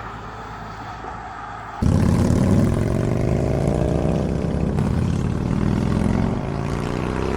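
Motorcycle engine and wind noise while riding. The engine comes in suddenly, loud, about two seconds in, its pitch rising as it accelerates, then easing back a little near the end.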